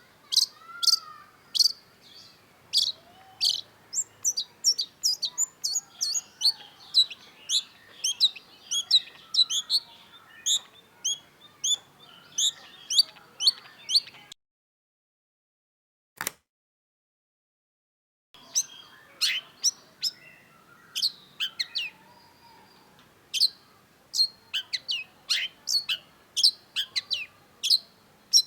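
Long-tailed shrike singing: a fast run of short, sharp high notes, about two or more a second. About halfway through, the sound drops out completely for about four seconds, broken only by a single click, then the notes resume.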